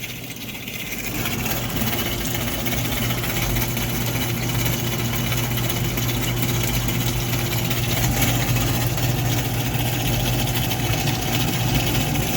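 Compact dishwasher running with its door open: the 1/8 HP reversing induction pump motor hums steadily while water sprays and splashes inside the tub. The sound grows louder about a second in and then holds steady.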